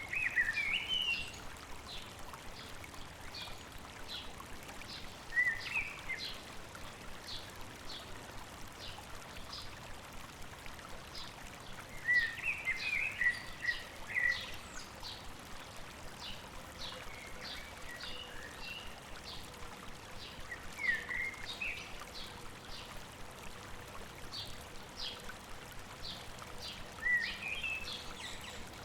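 Songbirds over the steady rush of a stream. One bird repeats a short, high call about twice a second, while another sings brief warbling phrases every few seconds.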